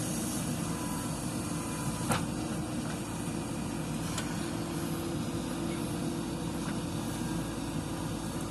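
Diesel engine of a JCB 3DX backhoe loader running steadily under work, with two short sharp knocks about two and four seconds in.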